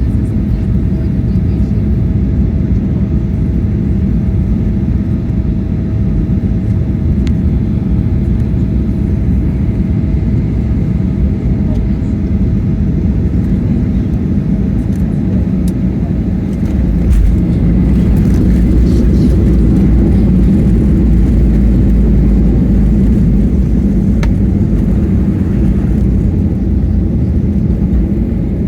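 Loud, steady cabin rumble of a Boeing 737-800 landing, with a thin steady whine that fades out in the first half. About 17 seconds in, the deep rumble suddenly jumps louder and stays up, as when the wheels touch down and the aircraft rolls out on the runway.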